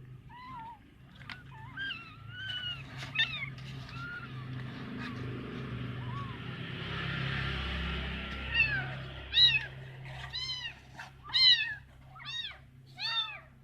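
A kitten meowing over and over with thin, high cries. The calls grow louder and come about once a second in the second half, typical of a kitten crying for help. A stretch of soft rustling-like noise runs through the middle.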